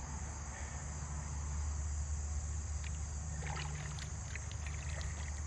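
Insects chirring steadily in a high, even drone over a low steady rumble, with a few light clicks about three and a half to four seconds in.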